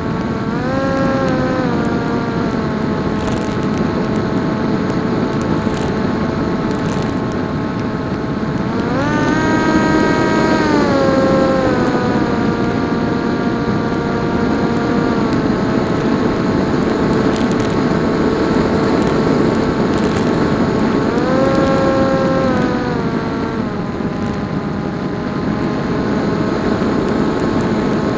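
Electric motor and propeller of a PopWing RC flying wing whining steadily in flight. The pitch rises and falls with throttle changes about four times, over a constant rush of wind.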